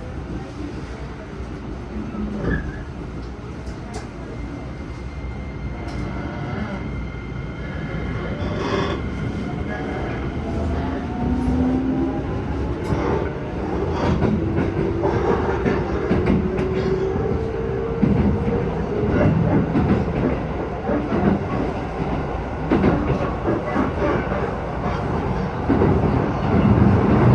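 Keisei 3000 series electric train accelerating, heard from inside the car: its traction motors give a whine that climbs slowly in pitch over the rumble of the wheels. The rolling noise grows louder throughout, with wheel clicks over the rail joints coming thicker near the end.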